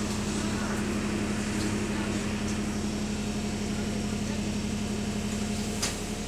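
Bus diesel engine idling with a steady hum and rattle, heard from inside the bus as it waits at a stop. Near the end there is a sharp click and the idle hum cuts off.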